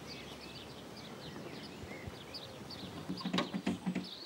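Birds chirping and singing, many short quick chirps and trills, over a light outdoor background. About three seconds in, a run of short knocks or clatters begins.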